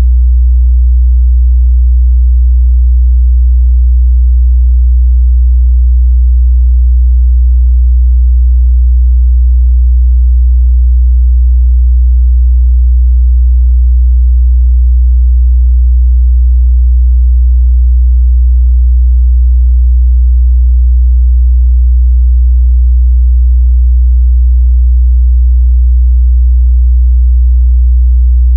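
A continuous, loud 61 Hz sine-wave test tone: a single steady deep bass hum that doesn't change.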